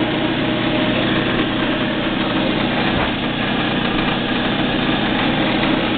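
JET 8" x 13" metal-cutting band saw running steadily under power: an even mechanical hum from its motor and blade drive.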